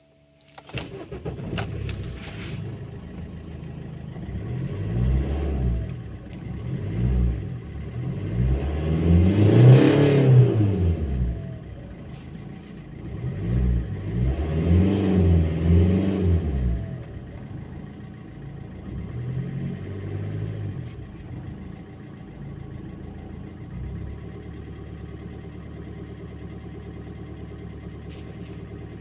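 Maruti SX4 1.3 DDiS four-cylinder turbodiesel engine starting about a second in, then being revved repeatedly from idle, the highest rev about ten seconds in and a double rev around fifteen seconds. It settles back to a steady diesel idle near the end.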